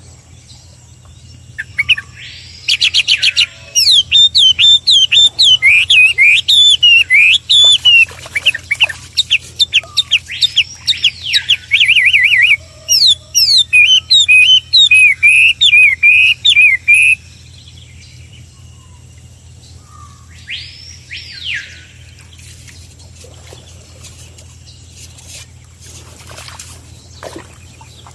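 A songbird singing a long, loud, varied song of quick whistled notes and rapid trills, which stops about 17 seconds in. A single arched whistle follows a few seconds later.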